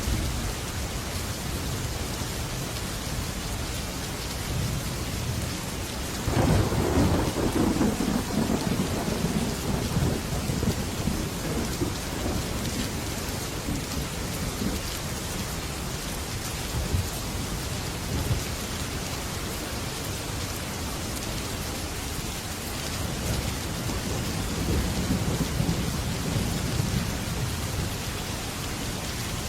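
Heavy rain on a metal roof with steady hiss, and thunder: a low rumble breaks about six seconds in and rolls on for several seconds, and another rumble builds near the end.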